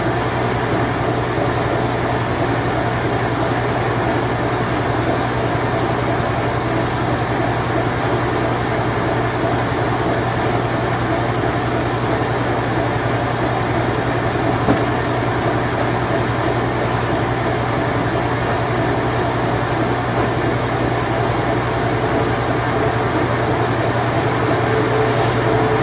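Whirlpool Imperial Clean Touch top-load washing machine in its spin cycle: a steady motor hum with the even whirr of the spinning drum.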